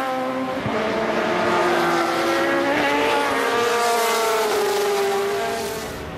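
Racing car engine running at high revs on the circuit. Its pitch rises slightly about three seconds in, then falls away slowly, and the sound fades near the end as the car goes past.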